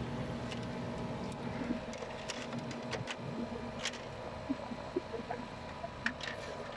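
LG 12,000 BTU window air conditioner running, its fan giving a steady hum and airflow noise. A few light clicks and taps are scattered through it.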